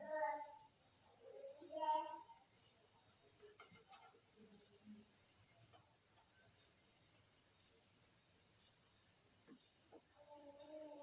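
Insects chirping: a high trill pulsing about three or four times a second over a steady, even higher buzz. The trill breaks off for about a second and a half past the middle, then resumes.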